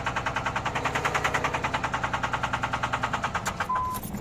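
2003 Dodge Ram 2500's 5.9 Cummins diesel running with a hard rhythmic knock, about eight beats a second, the sign of a fuel injector stuck open. The knocking stops about three and a half seconds in, followed by a short beep.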